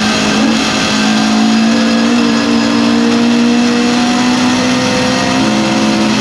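Lotus Cortina race car's twin-cam four-cylinder engine heard from inside the cabin, pulling hard under full throttle, its revs climbing slowly.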